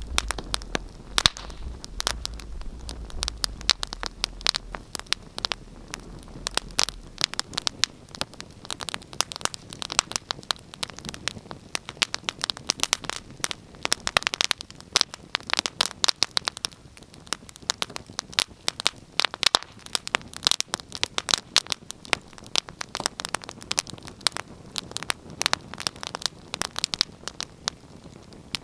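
Wood fire crackling: dense, irregular pops and snaps over a soft hiss, with a faint low rumble that fades out about seven seconds in.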